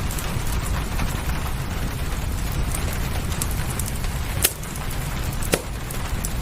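Steady rain with a low rumble beneath it, and a fireplace crackling with scattered small pops; two sharper, louder pops come about a second apart in the second half.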